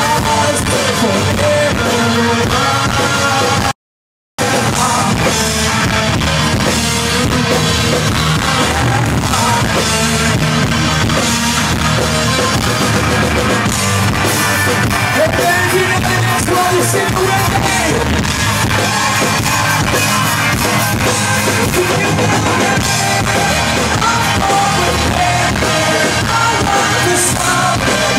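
Rock band playing live, loud and continuous, with drum kit and guitars, during a passage with no sung words. The sound cuts out completely for about half a second around four seconds in.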